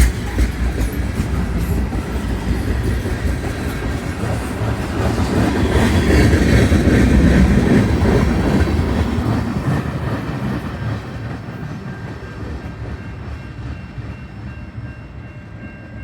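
A train passing on the rails, wheels clicking over the rail joints near the start; it is loudest about halfway through and then fades away as it moves off.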